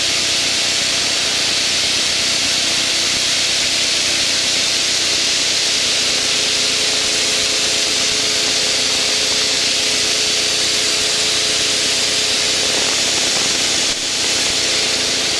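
Steady cockpit noise of an aircraft in formation flight: a loud even hiss of wind and engine with a steady engine drone underneath, dipping slightly near the end.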